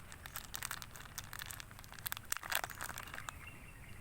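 Plastic packaging of a field ration's spoon-and-tissue pack crinkling as it is handled, a run of dense crackles with the loudest burst about two and a half seconds in.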